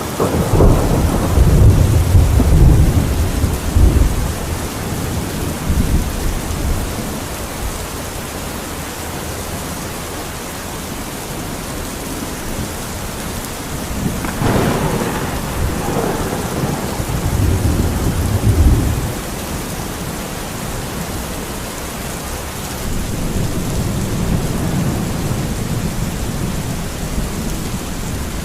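Steady heavy rain with thunder: a deep rolling rumble at the start, a sharper crack about halfway that rolls on for several seconds, and a fainter rumble near the end.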